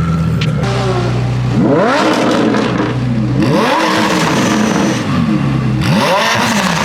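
A performance car engine idling, then revved in several quick throttle blips, the pitch sweeping up and dropping back each time before settling to idle again.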